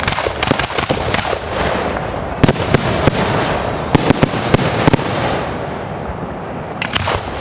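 Fireworks display: rapid sharp cracks and bangs over a continuous crackling hiss, dense for about five seconds, then thinning out, with a last few cracks near the end.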